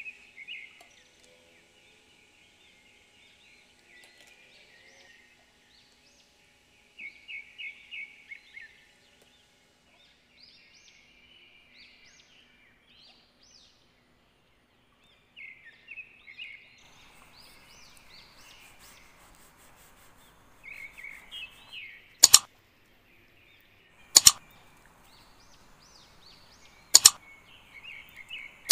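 Small birds chirping in quick, repeated high calls, with a faint steady hiss joining in partway through. In the last third come a few sharp, very loud clicks a couple of seconds apart.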